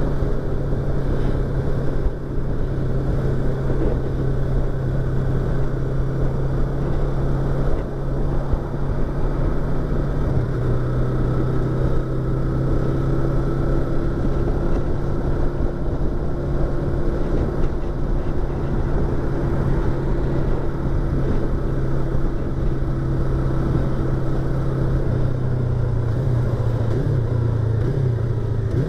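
Yamaha YZF-R25's parallel-twin engine running at a steady cruising pace, heard from inside the rider's helmet. The engine note shifts near the end.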